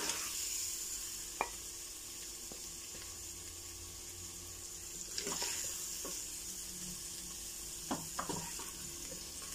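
Minced meat and potatoes sizzling in a hot aluminium pressure-cooker pot, a steady hiss, with a wooden spoon scraping and knocking against the pot a few times as it is stirred and dished out.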